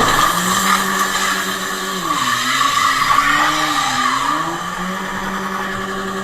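Car engine running steadily over road noise, its pitch sagging for a couple of seconds in the middle and then recovering.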